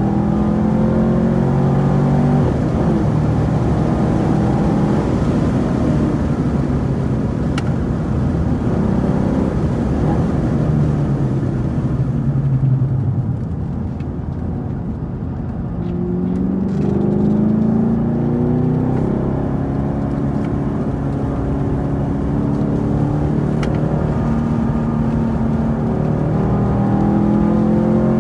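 2018 Camaro SS 1LE's 6.2-litre V8 running hard, its revs rising and falling through the gears. The engine goes quieter for a few seconds around the middle as the revs drop, then pulls back up.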